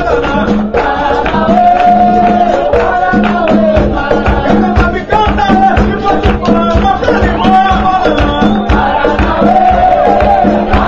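Capoeira roda music: voices singing over berimbau and hand percussion, with a low note repeating on a steady rhythm.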